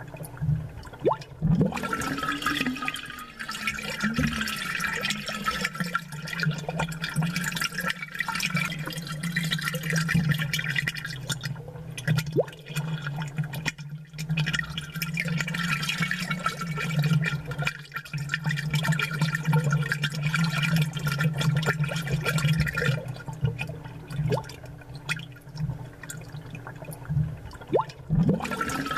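Aquarium bubbles, with long spells of dense bubbling that start and stop in cycles of several seconds. Under them runs a steady low hum.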